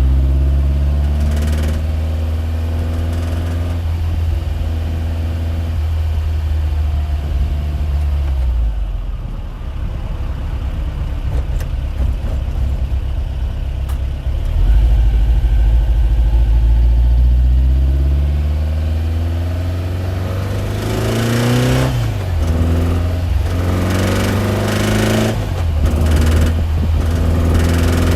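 An engine running, its pitch rising and falling several times as it speeds up and slows down, over a strong low hum.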